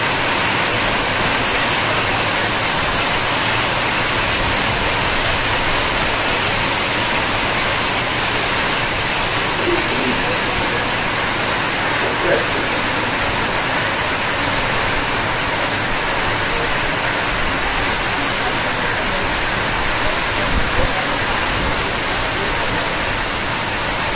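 Heavy pouring rain falling steadily, a dense even hiss with no letup.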